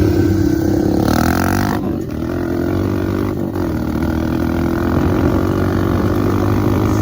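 Dirt bike engine running steadily, with a brief hiss about a second in.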